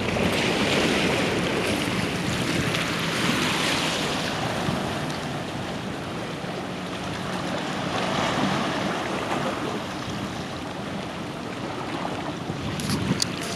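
Harbour water washing and surging in slow swells every few seconds, with a faint steady low hum underneath and a few sharp clicks near the end.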